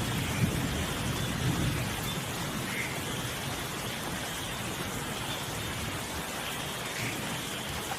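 Steady rain falling in a thunderstorm, an even hiss with scattered drips. A low thunder rumble dies away over the first couple of seconds.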